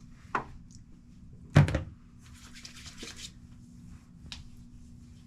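Close handling noises: a knock, then a louder knock about a second and a half in, followed by a brief rustle and a small click.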